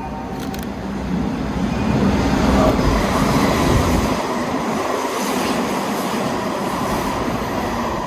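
A train running past on the tracks: a steady rumble of wheels and motors that builds over the first two seconds, is loudest a few seconds in, then holds steady.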